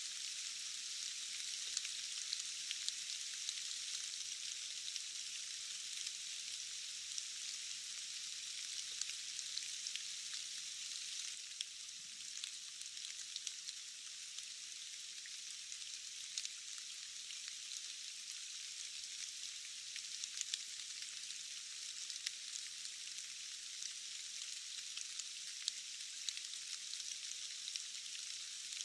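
Steady rain: an even, high hiss dotted with many small drop ticks, with no low rumble.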